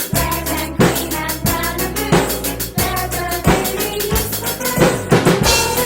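Instrumental pop song with a drum kit played along to it, kick and snare keeping a steady beat of about three hits every two seconds.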